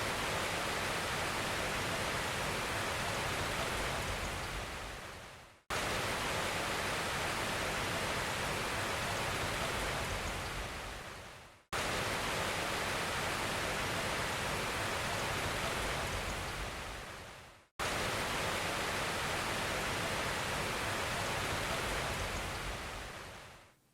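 A steady rush of water noise, with no pitch or rhythm in it, in four stretches of about six seconds. Each fades out and then starts again abruptly at full level.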